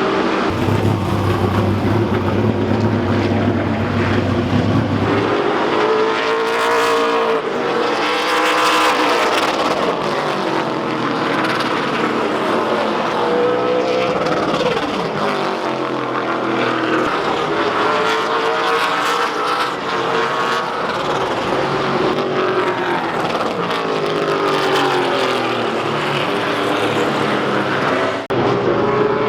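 Late model stock car engine at full racing speed around the track in practice, its note rising and falling again and again as the car accelerates down the straights and lifts for the turns. A low steady hum sits under it for the first few seconds.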